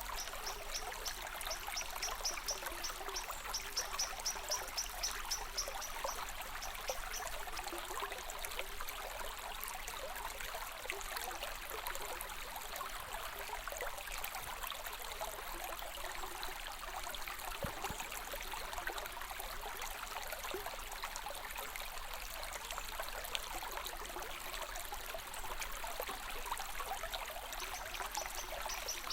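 Water in a stream flowing and trickling steadily. A high, rapid chirping runs over it for the first several seconds and comes back near the end.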